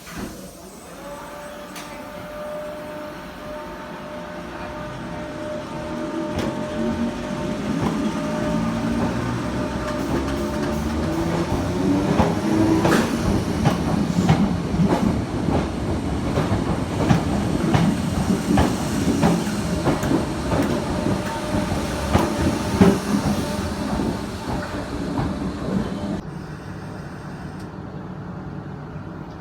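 A multiple-unit passenger train running through the station. It grows louder and then fades, its wheels clicking repeatedly over rail joints and points at the loudest part. The sound changes abruptly about three seconds before the end.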